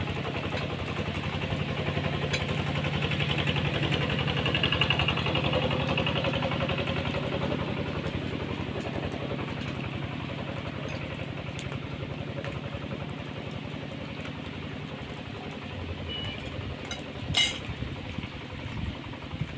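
A small engine running steadily. It grows louder a few seconds in and then slowly eases off, with one sharp click near the end.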